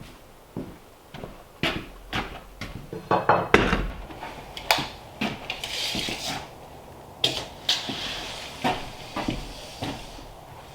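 A series of irregular knocks and clatters of hard objects, loudest about three to five seconds in, with two short scraping noises.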